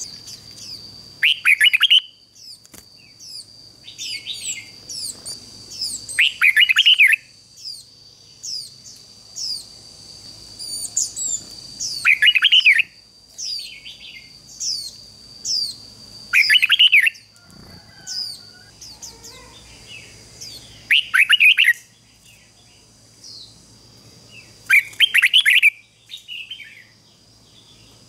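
Red-whiskered bulbul singing loud, short song phrases about every four to five seconds, with fainter high chirps between them and a steady high whine in the background.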